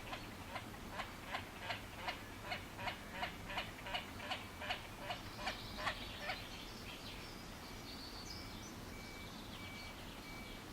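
A bird calling in a rapid, regular series of short notes, about three a second, for roughly six seconds, then stopping. Fainter, higher bird notes, including a repeated thin high note, carry on after it, and there is a single click right at the end.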